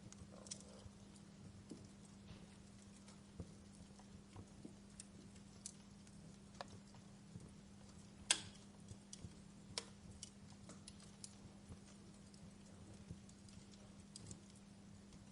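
Wood log fire crackling, with sparse irregular pops and snaps, the loudest about eight seconds in. A faint steady low hum runs underneath.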